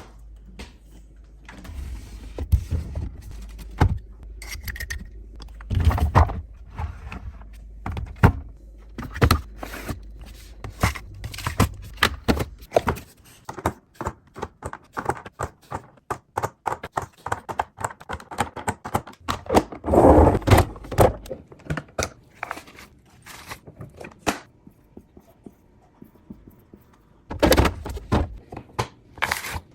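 Groceries and plastic containers being handled and set down while restocking a fridge: a steady run of clicks, taps and thunks, with a few louder, noisier clatters.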